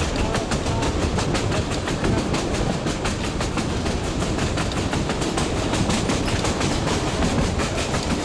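Narrow-gauge passenger train running at speed, heard from its own carriage: a steady rumble with a rapid, continuous clatter of wheels over the track.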